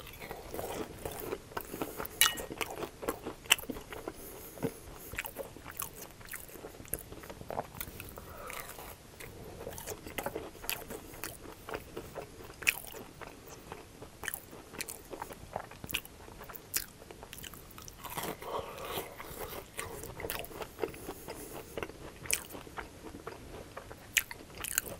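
Close-miked chewing of crispy fried mashed-potato cakes with a breaded crust, with many irregular sharp crunches as the crust is bitten and chewed.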